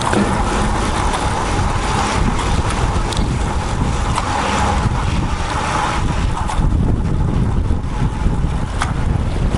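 Wind rushing and buffeting over the microphone of a bike-mounted action camera while riding a road bike, a steady loud rumble with road noise underneath.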